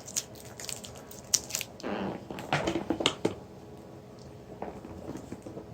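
Irregular clicks and short rustling, crackling handling noises, busiest in the middle, as of parts or wiring being handled.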